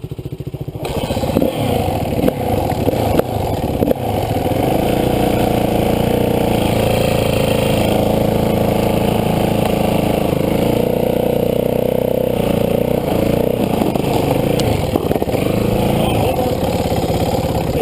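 Dirt bike engine idling, then picking up about a second in and running steadily under load as it tows a second bike on a strap, with knocks and scrapes over the first few seconds.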